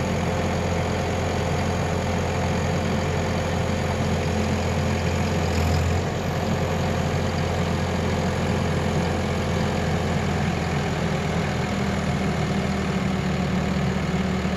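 Heavy diesel engine running at a steady speed, with a brief shift in tone about six seconds in.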